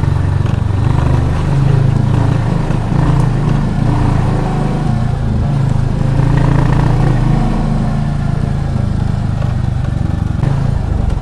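Royal Enfield Classic 350's single-cylinder engine running steadily as the motorcycle is ridden. Its low exhaust note rises and falls a little with the throttle.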